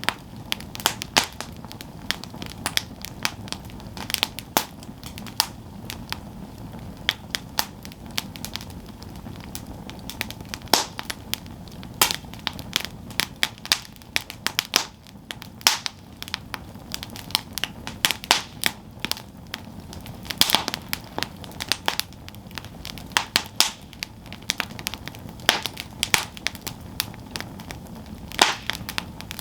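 Wood campfire burning, with a steady low rush of the flames and frequent irregular sharp crackles and pops from the burning wood.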